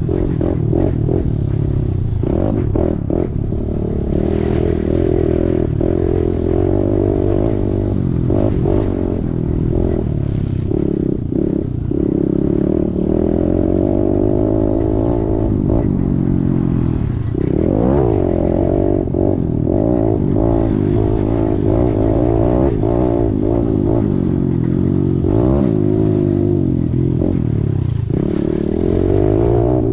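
Kawasaki KLX110's small single-cylinder four-stroke engine revving up and down under a rider on a motocross track, its pitch dropping sharply twice, about halfway through and near the end. Clatter and knocks from the bike over the rough track.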